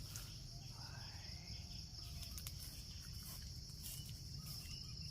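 Steady high-pitched insect drone that holds without a break, over a low rumble.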